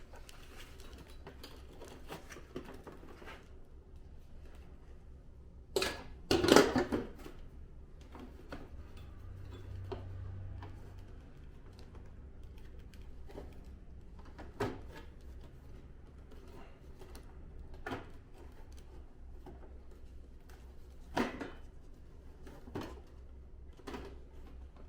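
Scattered clicks and knocks of plastic and metal air-conditioner parts being handled and fitted during reassembly, with a louder cluster of knocks about six seconds in, over a low steady hum.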